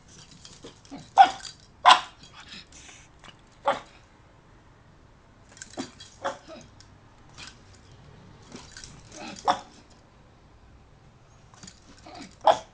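A dog barking at its own reflection in a mirror: single short, sharp barks, irregularly spaced, some close together and some a few seconds apart.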